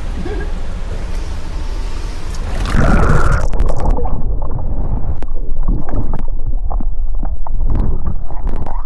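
Rushing canyon water, then about three seconds in the sound turns loud and muffled, with gurgling and sloshing as the microphone goes under the water.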